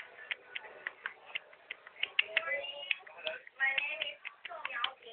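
Budgerigar chattering: a rapid string of sharp clicks mixed with quick warbling chirps and mimicked talk-like sounds.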